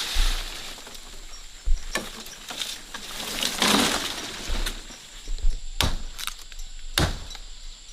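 Several sharp knocks or wooden clunks with handling and rustling noise between them, one longer scraping rustle in the middle.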